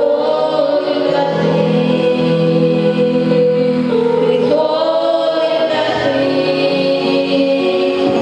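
A choir or group of voices singing a slow gospel worship song, with long held notes.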